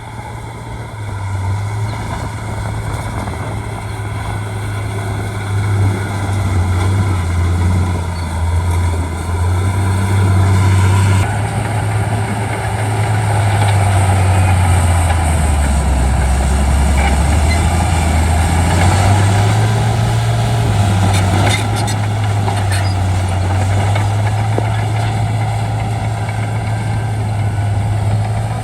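Bulldozer's diesel engine running steadily under work. Its note drops for a few seconds in the middle, then rises again.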